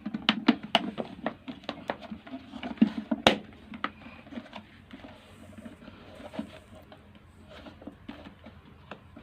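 Plastic parts of an electric kettle clicking and knocking as they are handled and fitted back together during reassembly. The knocks come in a quick run over the first few seconds, then thin out to occasional taps.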